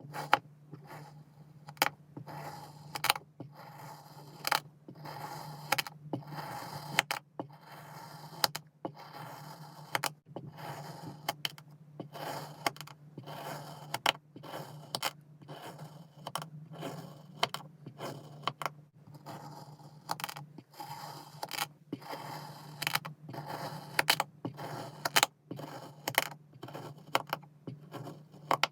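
Kinetic sand being cut with a blade: repeated short scraping slices through the packed sand, with sharp clicks as the blade meets the surface below. A steady low hum runs underneath.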